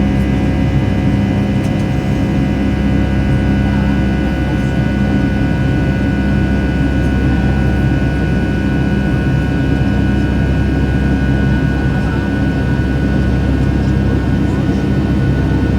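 Steady jet airliner cabin noise inside a Boeing 757 in flight: a loud, even rumble of engines and airflow with several steady tones laid over it.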